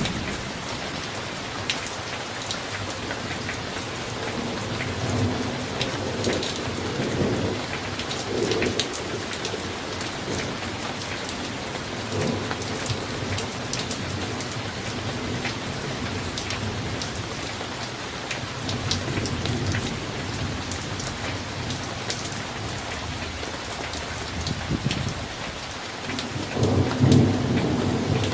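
Steady summer rain, with individual drops ticking close by, under thunder rumbling on and off. The loudest rumble comes near the end.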